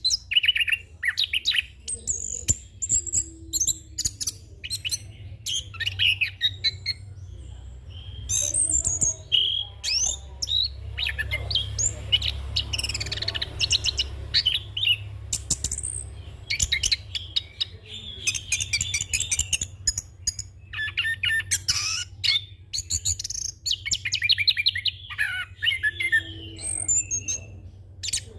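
Orange-headed thrush singing a long, nearly unbroken run of rapid, varied high phrases and fast trills, the continuous 'ngeroll' song packed with imitated calls.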